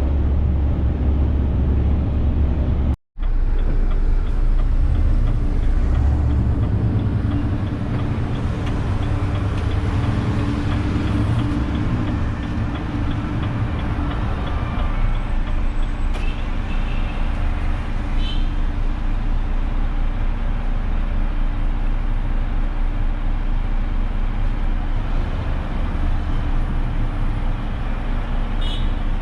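Renault truck's diesel engine running with a steady low rumble and road noise, the sound cutting out for an instant about three seconds in.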